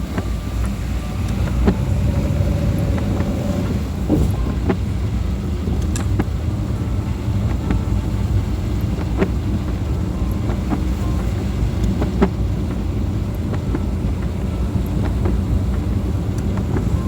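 Car driving on a wet road in the rain: a steady low rumble of engine and tyres, with scattered sharp ticks of raindrops hitting the car.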